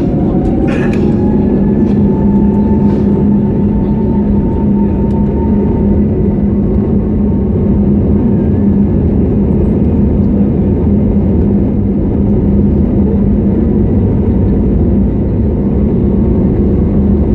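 Airliner jet engines heard loud inside the passenger cabin at takeoff power: a steady roar with a low hum, and a whine that rises over the first two seconds and then holds as the engines spool up.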